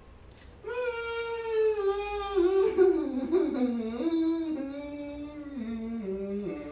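A person's voice making one long unbroken wordless sound that starts high and steps down in pitch several times, like a drawn-out whine, as a turn in a sound-making challenge.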